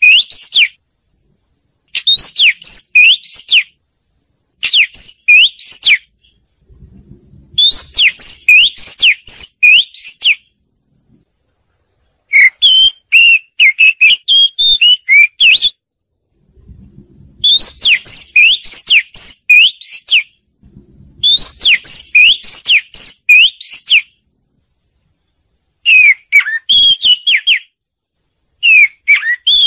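Oriental magpie-robin singing: loud phrases of clear whistles sweeping up and down, each a second or three long, repeated again and again with short pauses between them.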